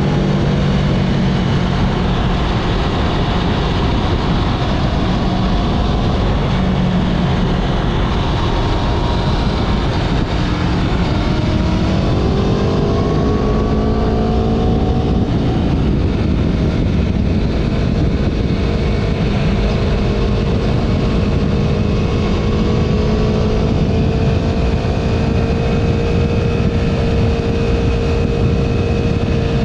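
Motorcycle engine running under way, with wind noise rumbling over the microphone. The engine pitch falls at the very start, climbs about twelve seconds in, then holds, slowly rising, for the rest of the run.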